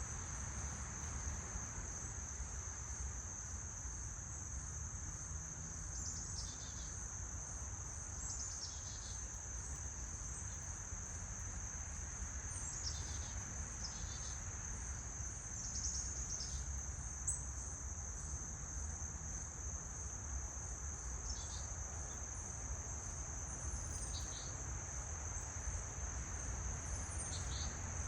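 A steady high-pitched insect trill, typical of crickets, runs without a break. Short bird chirps come now and then, about eight of them, over a low background rumble.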